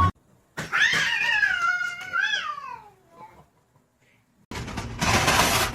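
A cat's single drawn-out meow lasting about two seconds, wavering and then falling in pitch as it fades. About four and a half seconds in, a steady noisy rush starts abruptly.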